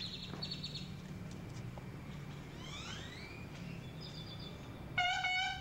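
Birds chirping in short, quick runs, with rising whistled calls in the middle, over a low steady hum. Near the end a louder sustained high-pitched tone with several overtones sounds for about half a second.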